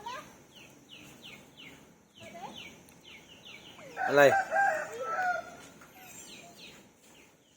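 A rooster crowing once, about four seconds in. Behind it, a steady run of short, high, falling chirps repeats several times a second.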